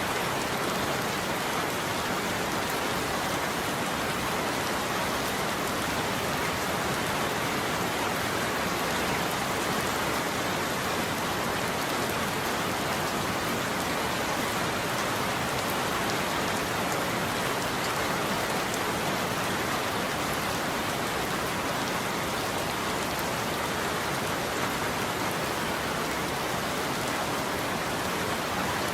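Steady heavy rain falling on a surface, a dense, even patter of drops with no thunder.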